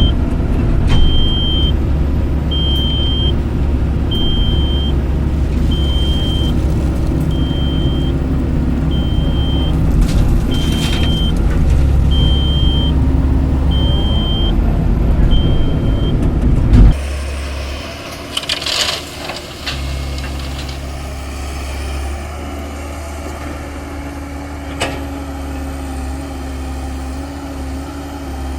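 Heavy diesel engines of the excavator and trucks running loudly, with a reversing alarm beeping about once a second. Both stop suddenly about two-thirds of the way through, leaving a quieter steady engine idle with a short hiss and clatter just after the change.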